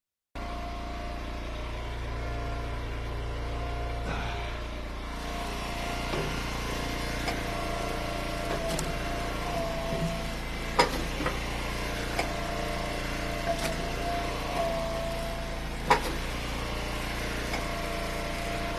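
Eastonmade Ultra wood splitter's engine running steadily, with a steady whining tone over it. A few sharp knocks or cracks, the loudest about eleven and sixteen seconds in.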